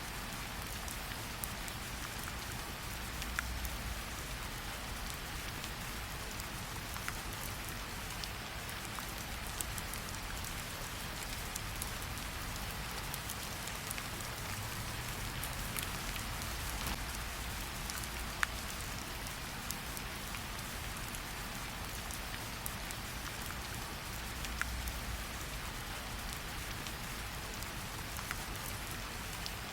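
Steady rain falling, a continuous even hiss, with scattered sharp crackles and pops from a campfire.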